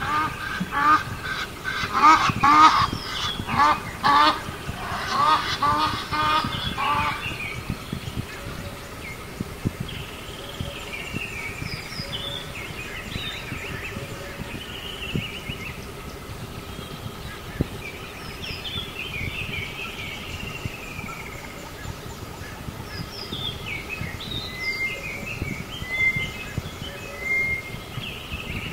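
Bird calls: a rapid series of loud, honk-like calls for about the first seven seconds, then scattered chirps and whistles from smaller birds over a steady background hiss.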